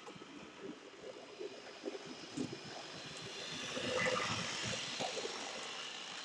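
Model railway locomotive running along the layout track, a rolling rattle of wheels on rail with motor whir. It swells louder about four seconds in as it passes close, then eases off.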